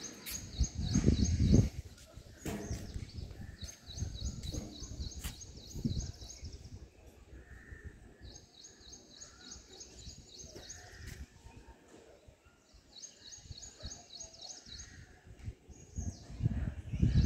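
A small bird calling in series of rapid, high chirps, each series lasting two to four seconds, with short gaps between them. A low rumble comes and goes underneath, loudest about a second in and again near the end.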